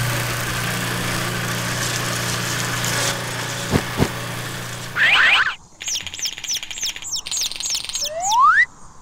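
A machine motor hums steadily for about five seconds, with two quick clicks just before it cuts off. Then chicks cheep in quick, high chirps, ending with one long rising peep.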